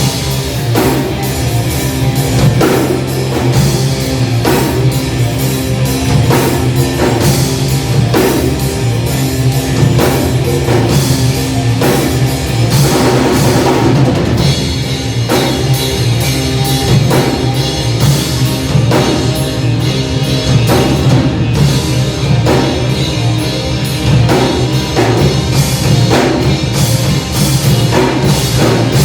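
Live rock band playing an instrumental passage after the chorus, led by a drum kit with a steady beat and guitars.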